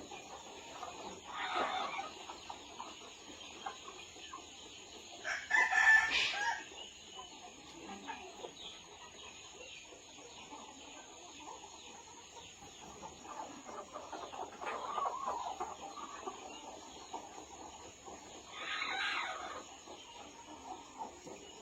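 Chickens clucking, with a loud call about six seconds in and another, lasting about a second, near the end.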